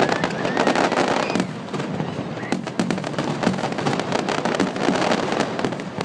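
Fireworks going off in a dense, continuous crackle of many sharp pops.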